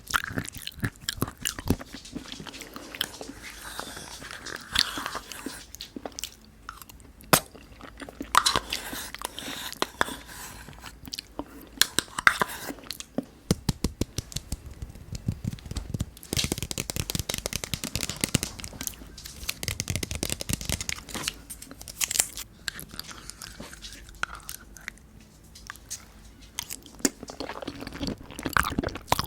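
Close-miked eating sounds of pudding: chewing and wet mouth sounds with many sharp clicks, denser and more continuous through the middle stretch.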